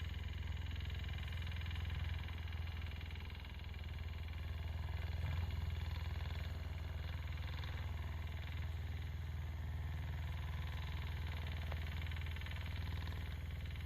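A machine running with a steady low mechanical hum and a noisy whir over it.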